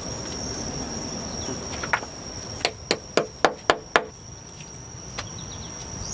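A quick run of six sharp knocks, about four a second, midway through, like a hand tool striking wood or stone. Under it runs a steady high-pitched insect drone.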